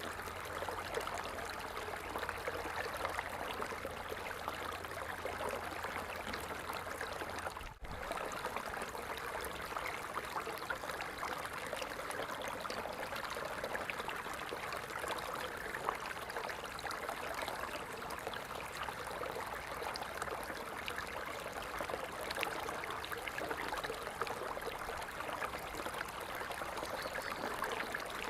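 Water falling and splashing steadily, an even rushing with fine splashes. The sound dips briefly about eight seconds in.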